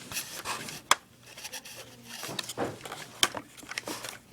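Toy packaging being handled and pried at: scattered rustles and sharp plastic clicks, the loudest about one second in and again about three seconds in.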